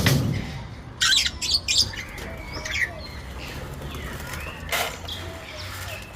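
Parrots squawking: a quick run of four or five short, harsh calls about a second in, then scattered single calls, with one loud call near the end.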